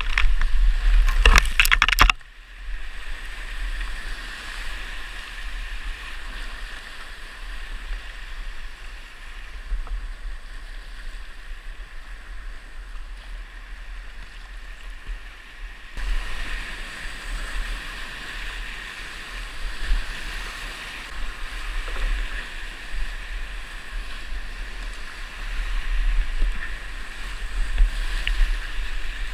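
Rushing whitewater of a creek in high flow at about 450 cfs, heard as a steady hiss with a low rumble underneath. A few loud knocks come in the first two seconds.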